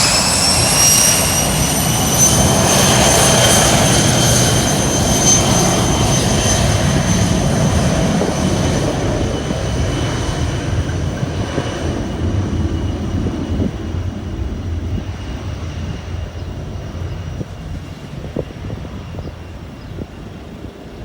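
Corporate jet's turbofan engines spooling to takeoff power: a high whine climbs in pitch and levels off within the first couple of seconds over a heavy rumble. The sound then slowly fades as the jet takes off and moves away.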